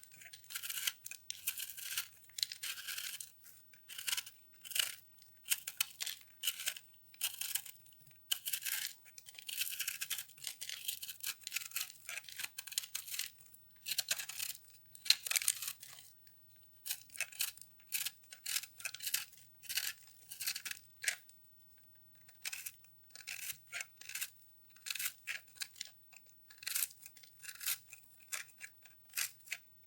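Microwaved soap, dried into brittle foam, being cut and crushed: a run of short, crisp crunching and scraping strokes in quick irregular succession, with a brief pause about two-thirds of the way through.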